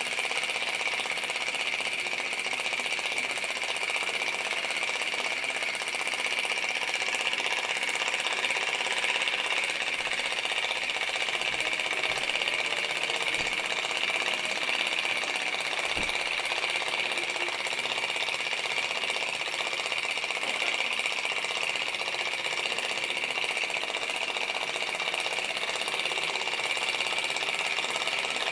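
Star Power flame-licker vacuum model engine fitted with a second flywheel, running steadily with an even mechanical clatter.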